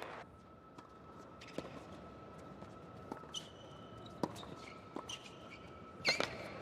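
Sharp tennis-ball knocks on a hard court, about one a second, with short high sneaker squeaks, the loudest about six seconds in; a faint steady tone runs underneath.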